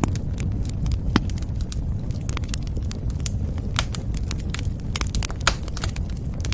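Wood fire burning with a steady low rumble and irregular sharp crackles and pops, a few louder snaps standing out.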